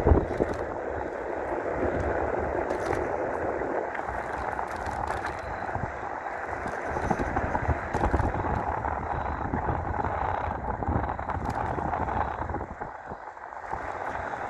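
Wind rushing over the microphone and knobby tyres running on pavement as an electric mountain bike is ridden along, with a brief thump at the very start.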